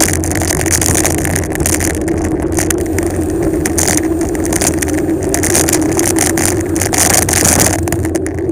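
Wind rushing and buffeting over the action camera's microphone, with tyre noise on the road, during a bicycle descent at speed.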